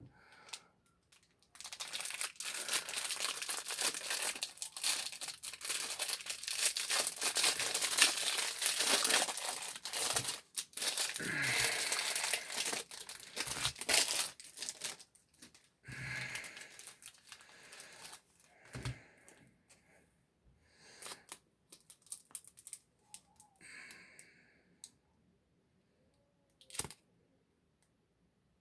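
Plastic packaging being torn open and crinkled by hand, a dense run of crackling for about twelve seconds, then scattered shorter crinkles and a single click near the end.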